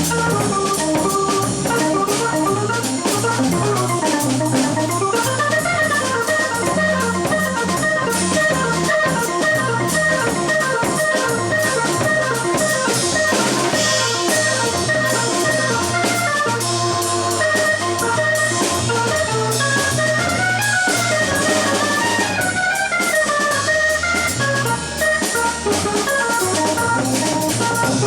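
Live jazz trio playing: fast running melodic lines over a walking low end and drum kit, with a cymbal wash swelling about halfway through.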